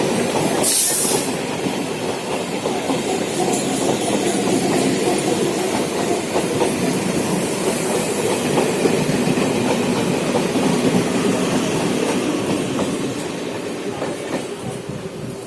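Train running along the station platform, its wheels clattering over the rail joints, with a short sharp hiss about a second in; the sound fades near the end as the train moves away.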